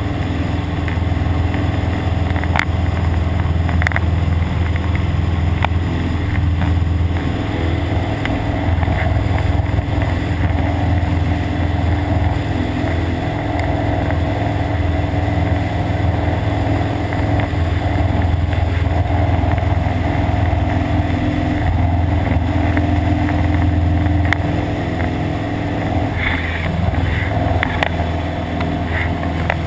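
Cessna 172's four-cylinder piston engine and propeller droning steadily in cruise, heard from inside the cabin.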